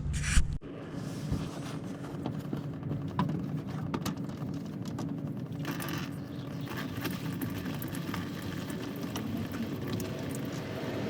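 Coolant draining from a Dodge Ram 1500's radiator drain into a pan, a steady splashing patter with small scattered ticks, after a brief sharp sound at the very start.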